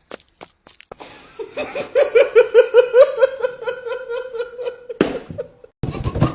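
A person laughing hard in a rapid string of ha-ha bursts lasting about three seconds, after a few faint clicks. It cuts off suddenly near the end.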